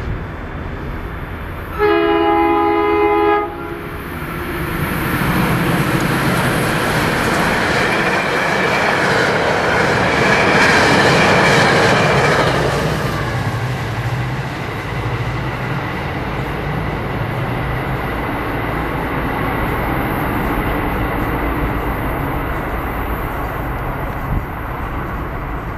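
MBTA commuter rail train sounding a chord horn in one blast of about a second and a half, about two seconds in, then passing at speed: wheel and engine rumble builds to its loudest around ten to twelve seconds in as the diesel locomotive goes by, then settles into a steady rumble.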